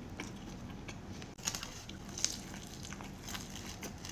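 Close-up mouth sounds of biting and chewing breaded fried chicken dipped in ranch: a string of sharp crunchy clicks and wet chewing, the loudest crunches about a second and a half in and just past two seconds.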